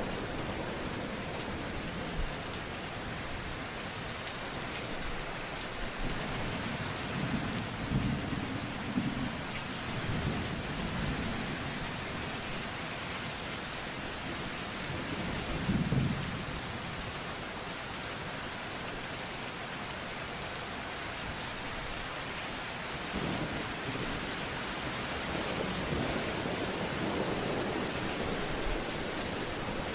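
Steady rain with rolling thunder: several low rumbles swell and fade, the loudest about halfway through.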